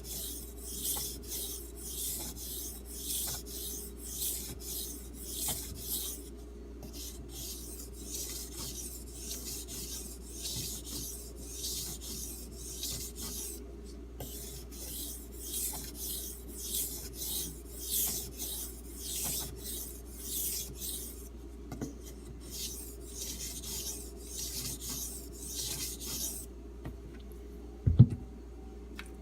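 D2 steel knife blade being stroked back and forth across a wet 3000-grit Arkansas water stone with light hand pressure: a steady rhythm of gritty scraping strokes with a few short pauses. The strokes stop near the end, followed by a single sharp knock.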